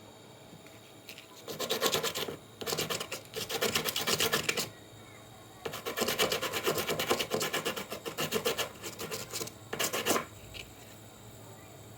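Rapid back-and-forth scraping strokes in bursts of a few seconds, with a short pause about five seconds in.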